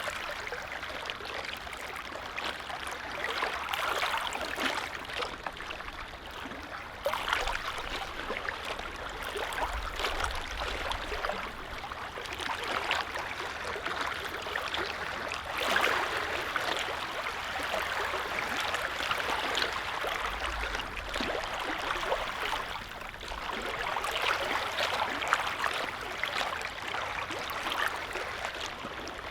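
Small lake waves lapping and splashing gently at the shore, a continuous watery wash that swells and eases every few seconds.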